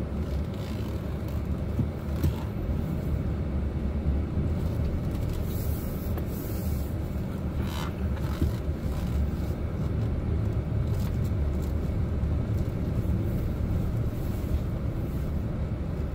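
Chevrolet Silverado pickup driving slowly, heard from inside the cab: a steady low rumble of engine and tyres.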